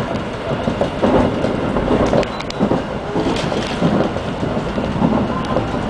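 Train running at speed on the track, heard from inside the passenger car: a steady rumble of wheels on rail with a few short knocks.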